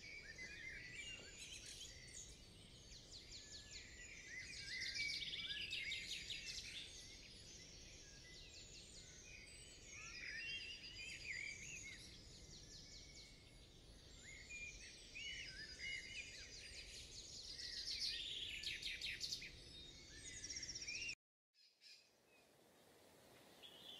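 Faint chorus of forest birds calling: short chirps, whistled glides and rapid trills, swelling in three louder spells, then cutting off suddenly a few seconds before the end.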